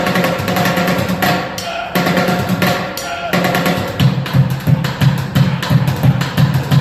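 A street drummer playing fast, busy rhythms on drums, with two brief breaks in the first half and heavier, evenly repeating low hits from about halfway through.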